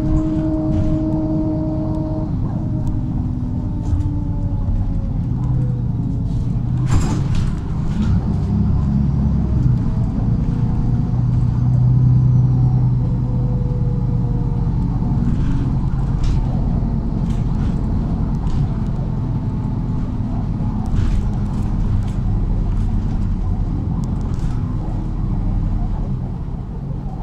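MAZ-103 city bus driving, heard from inside the passenger cabin: a steady low engine rumble with faint whines that slide up and down, and scattered short knocks and rattles.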